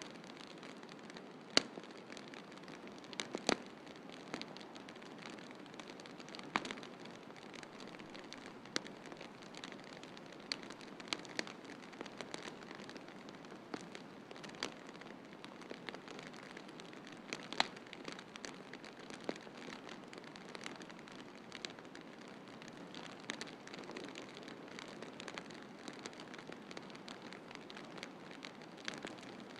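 Wood fire crackling in a fireplace: irregular sharp pops and snaps, a few clearly louder than the rest, over a steady hiss.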